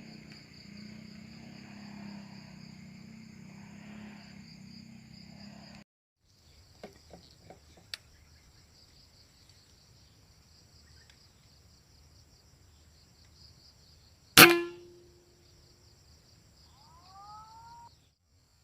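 Steady buzz of insects with a few light clicks, then one sharp, loud air-rifle shot about two-thirds of the way in, followed by a short ringing tone that dies away within a second.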